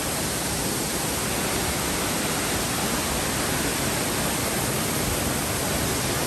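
Steady rushing of a river and waterfall, an even continuous roar of water with no breaks or changes.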